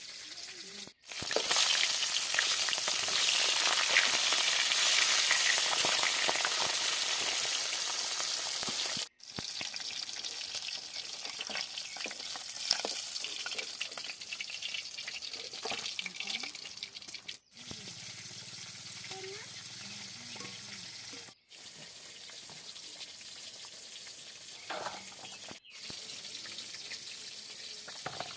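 Food frying in hot oil in a pan, a loud sizzle for several seconds, then a quieter sizzle with the clicks and scrapes of stirring. The sound drops out briefly several times where the clips are cut.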